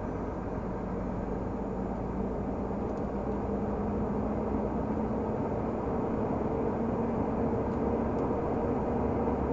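Renault Magnum 480 truck's diesel engine running while driving, a steady drone whose pitch and loudness climb slowly as the revs rise.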